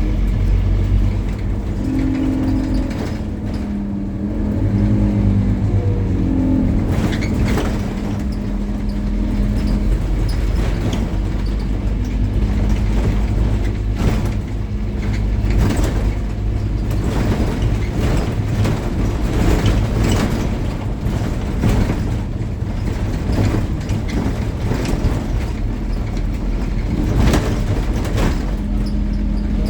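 Scania N270UD OmniCity double-deck bus running, its engine note shifting in pitch over the first several seconds. From about halfway through, frequent sharp knocks and rattles sound over the engine.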